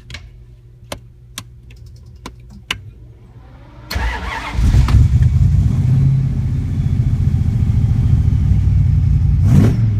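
Car engine starting: a few sharp clicks, then the engine catches suddenly about four seconds in and runs loud and steady at a low rumbling idle.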